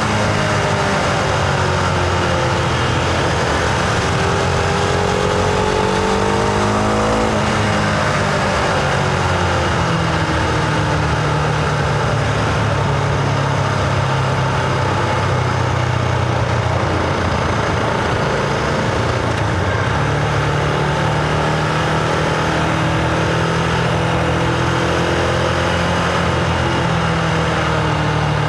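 Husqvarna Vitpilen 701's single-cylinder engine pulling the bike along, its revs falling, climbing again and dropping sharply about seven seconds in, then holding steadier, over a constant rushing noise.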